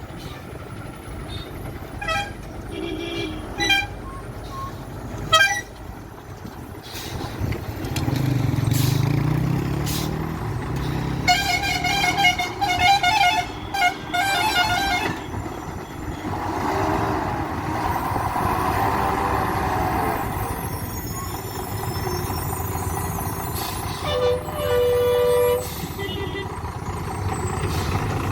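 Heavy trucks on a hill road: diesel engines running under load, with a few short horn toots in the first few seconds, a long pulsing horn in the middle, and another horn blast near the end.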